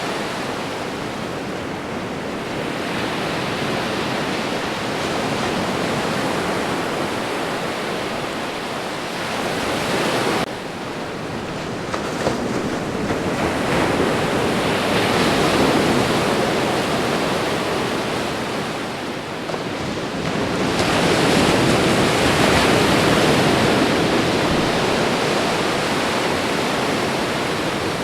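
Ocean surf: waves breaking and washing in, a continuous rush that swells and eases every few seconds. The loudest breakers come a little past the middle and again about three quarters through. The sound drops off abruptly about ten seconds in.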